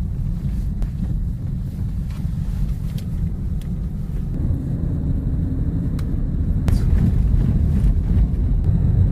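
Car driving along a road: steady low rumble of engine and tyres, growing a little louder about halfway through, with a few faint ticks.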